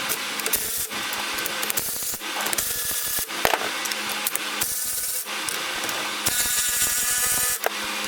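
Coil-spring compressors on a Mustang front strut being run down their threads, a rasping mechanical sound in repeated stretches of about a second with short breaks between. The breaks fit the compressors being taken down a little at a time to keep them even.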